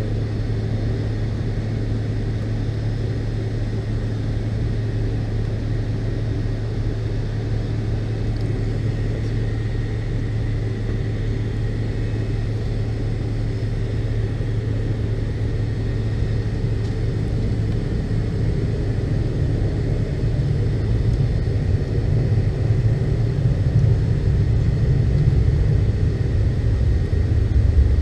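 Cabin noise inside a McDonnell Douglas MD-82 on the ground: the rear-mounted Pratt & Whitney JT8D engines at idle give a steady low hum with a faint thin whine above it. Over the last ten seconds a rumble grows louder and rougher as the airliner rolls along the taxiway.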